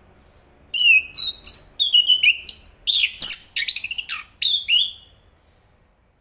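Chestnut-capped thrush singing one burst of song lasting about four seconds: quick, varied whistled notes and slurs, with a rapid run of short notes near the end.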